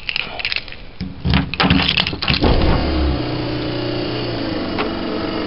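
Knocking and clattering, then a motor starts about two seconds in and runs steadily.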